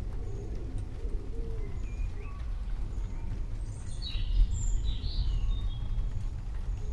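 Birds chirping in a short flurry about four seconds in, over a steady low rumble; a pigeon or dove cooing faintly near the start.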